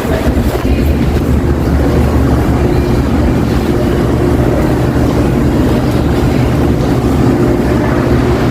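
Supermarket ambience: a steady low machine hum and rumble with no distinct events.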